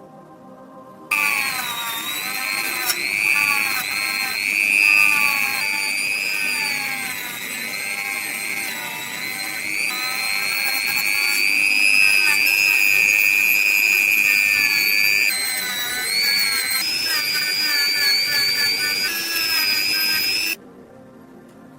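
Small electric power tool running with a high whine. It switches on about a second in, wavers up and down in pitch, and switches off shortly before the end.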